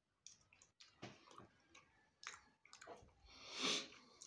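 Close-up chewing of crisp fried blue whiting, with small wet mouth clicks and smacks. About three and a half seconds in comes a louder, half-second rush of noise.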